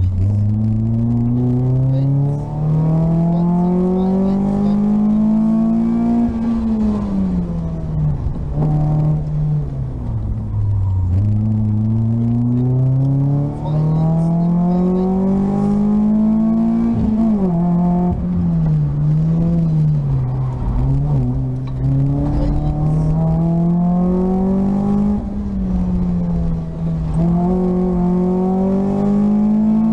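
VW Lupo GTI rally car's 1.6-litre four-cylinder engine heard from inside the cabin, pulling hard in long climbs of pitch that last several seconds and drop back at each gear change or lift, about five times, over a steady rumble of road noise.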